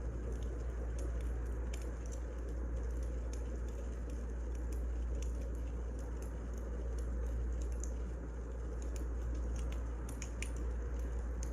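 Burning firewood: a steady low rumble with small, irregular crackles and pops scattered throughout.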